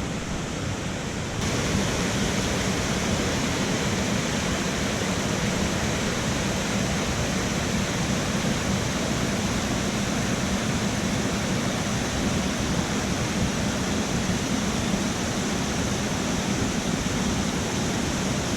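Waterfall: a steady rush of water cascading over rock, which grows louder and brighter about a second and a half in.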